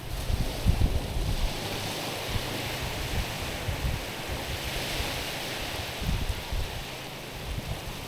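Small waves washing against a rocky shore, with two washes swelling and fading. Wind buffets the microphone with low gusty rumbles.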